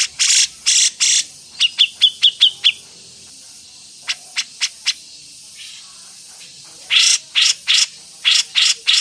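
Songbird calling in short, harsh notes high in pitch, with a quick run of about six sharp chips about two seconds in, a pause, and a fast string of harsh notes again near the end.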